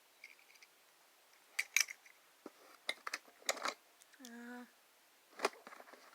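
Small die-cast toy cars being handled, giving several sharp metallic clicks and short rattles as they are picked up and set down.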